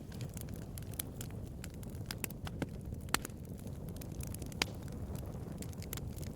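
Wood bonfire crackling: a steady run of small sharp pops and snaps over a low, even rumble, with two louder pops about three and four and a half seconds in.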